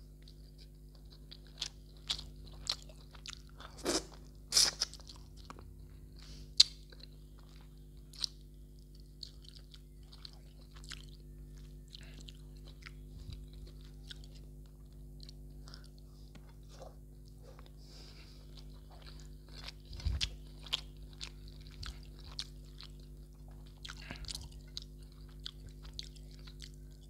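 Close-miked chewing of rice and mutton curry eaten by hand: wet mouth clicks and sharp crunches come irregularly, with the loudest crunches about four to seven seconds in and again around twenty seconds. A steady low electrical hum runs underneath.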